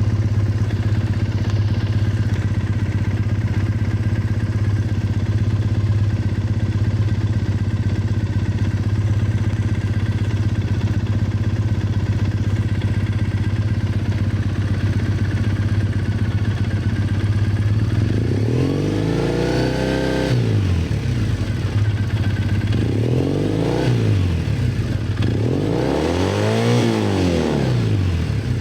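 Triumph Bonneville EFI parallel-twin engine running through an aftermarket Toga classic-style exhaust: a steady idle, then about three quarters of the way in, three throttle blips, each revving up and dropping back to idle.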